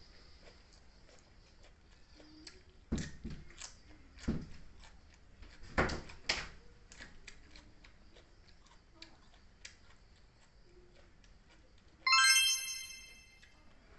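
A few sharp knocks and clinks, five or so between about three and six and a half seconds in, then near the end a single bright ringing chime that strikes suddenly and fades away over about a second and a half.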